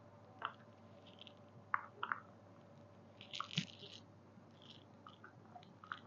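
Faint scattered clicks and rustles of a mini sewing machine and its foot pedal being handled and pressed, a few sharper clicks about two seconds in and again a little past three seconds in; no motor sound.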